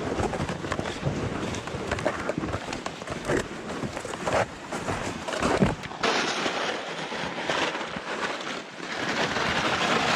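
Footsteps crunching on packed snow in a fast walking rhythm, a string of irregular crackles and thumps. After about six seconds a steady hiss joins in.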